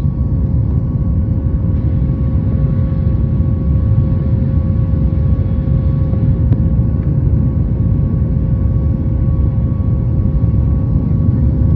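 Cabin noise of a Boeing 737 MAX 8 climbing out just after takeoff: a steady low roar from its CFM LEAP-1B turbofan engines at climb power and the rush of air past the fuselage, with two steady tones humming above it.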